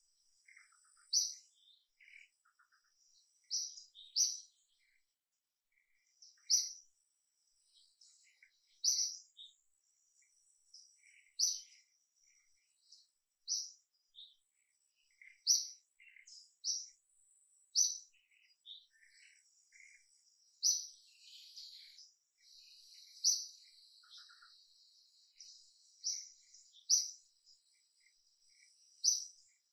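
Birds chirping in the trees: short, sharp, high chirps repeated every second or two, with softer scattered twitters between them and a faint steady high hiss building up past the middle.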